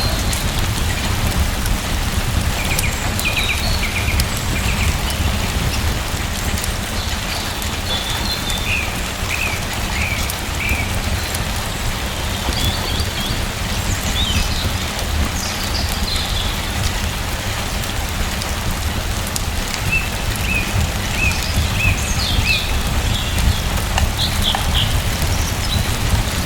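Steady rain with a deep low rumble. Small birds chirp over it in short runs of quick notes, a few times through the stretch.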